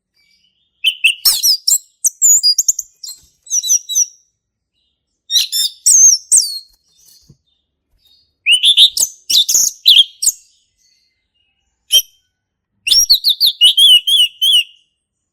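Male orange-headed thrush singing in full, loud song: varied phrases of sweet gliding whistles and rapid warbles, delivered in bursts of a second or two with short pauses between.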